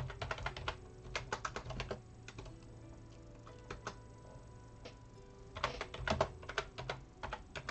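Quick clusters of light plastic clicks and taps, dense at the start and again near the end, over faint background music.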